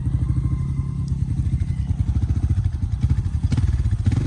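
Motorcycle engine running at low speed with a steady low pulsing, the bike being ridden slowly over a rough, wet road. A couple of sharp knocks come about three and a half seconds in and near the end.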